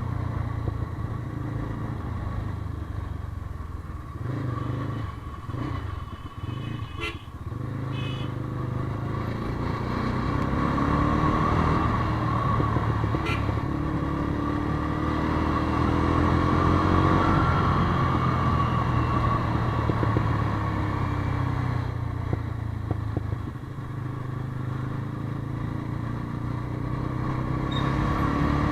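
Motorcycle engine running in city traffic, picking up speed about halfway through, recorded through an action camera's built-in microphone.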